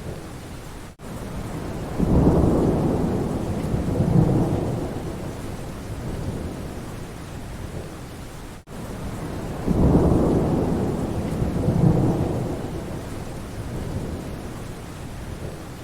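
Steady rain falling, with two rolls of thunder, one about two seconds in and another near ten seconds, each coming in suddenly and rumbling away over several seconds. A very brief cut in the sound comes just before each roll.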